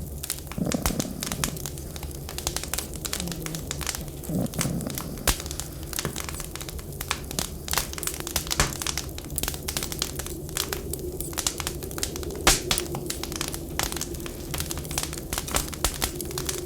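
Wood fire crackling in a fireplace: dense, irregular snaps and pops, one louder pop about twelve seconds in, over a steady low background hum.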